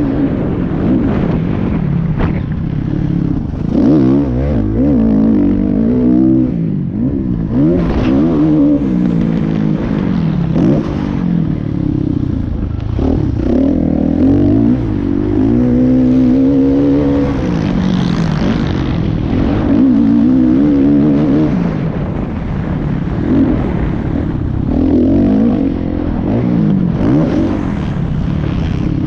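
Motocross dirt bike engines revving, the pitch climbing and dropping every second or two as they accelerate and shift, with more than one engine heard at once at times.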